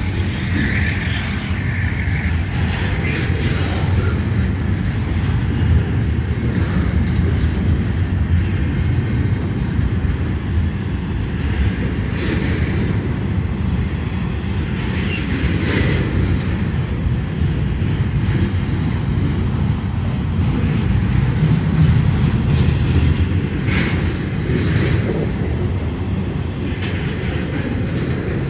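Double-stack intermodal freight train cars rolling past at steady speed, with a continuous low rumble and occasional sharp wheel clicks at irregular intervals.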